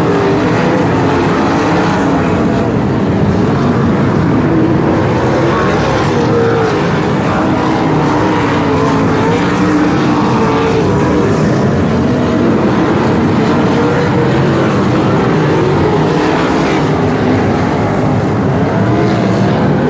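Several sprint car engines running at once in a steady, loud drone. Overlapping engine pitches waver up and down as the cars accelerate and lift.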